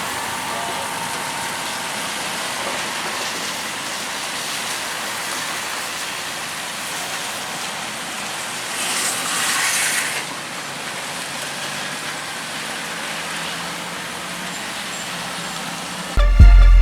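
Road traffic noise from vehicles on a mountain road, a steady rush with a louder hissing swell lasting about a second and a half near the middle. Music with a heavy beat cuts in at the very end.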